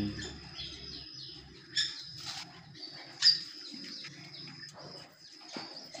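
Small birds in an aviary chirping, with a few sharp calls, the loudest about three seconds in, over a thin steady high tone.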